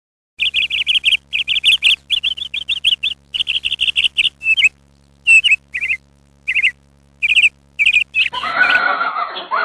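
A bird chirping in quick runs of short, high, repeated notes, with pauses between the later runs. Near the end a different, rougher sound takes over.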